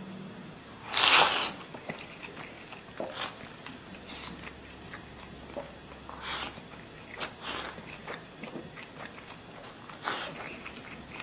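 A person eating hot-pot mutton close to the microphone: chewing and biting with small wet clicks. Several short noisy bursts stand out, the loudest about a second in.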